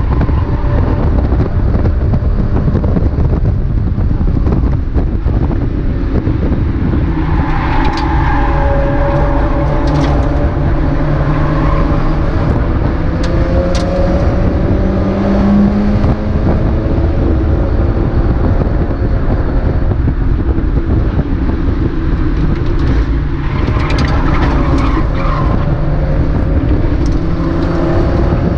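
Mazda MX-5 race car at racing speed, heard on board. The engine note climbs and falls through gear changes over heavy wind and road rumble, with a few sharp clicks.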